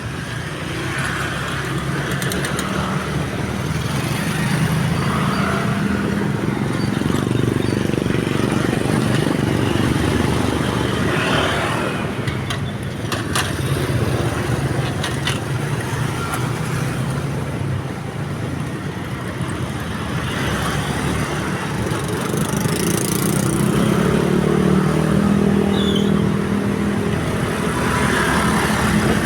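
Road traffic at a railway level crossing: motorcycle and car engines running past, their sound swelling and fading as vehicles come and go.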